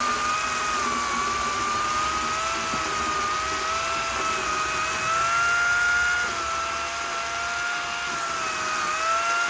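A power tool's motor running steadily, a high whine that wavers slightly in pitch, over a constant rushing noise.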